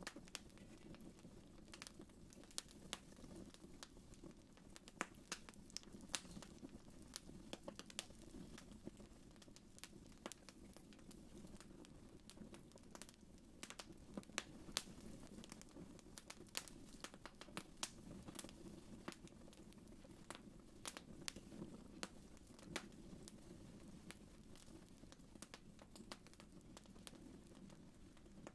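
Wood fire crackling faintly in a fireplace: irregular sharp pops and snaps, several a second, over a soft steady low rumble of the flames.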